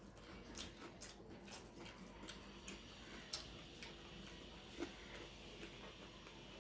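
Faint eating sounds during a meal of pulao and chicken roast: scattered soft clicks and taps, with two sharper ones near the middle.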